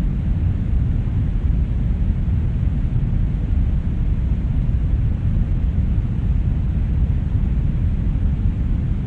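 Brown noise: a steady, deep rumbling hiss, strongest in the bass and fading toward the treble, unchanging throughout.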